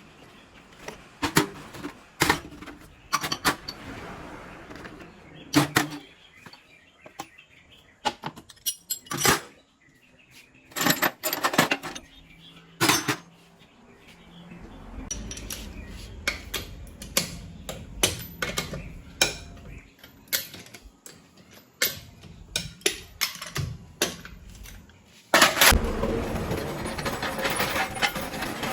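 Irregular metallic clinks and knocks of hand tools and parts being handled. About 25 s in, a louder steady noise starts suddenly.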